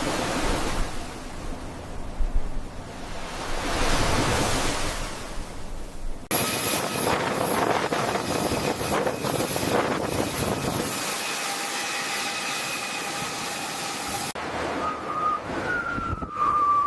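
Wind and sea noise, swelling and easing, changing abruptly about six seconds in to a steadier noisy rush with faint steady high tones; near the end a wavering whistle-like tone comes in.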